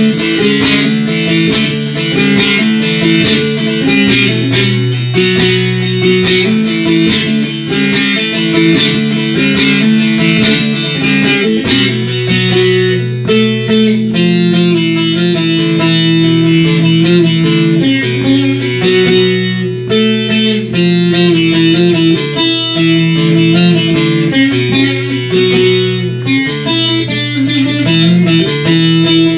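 Bağlama (Turkish long-necked saz) being played solo: a busy plucked melody with steady low notes held underneath, the phrase changing about twelve seconds in.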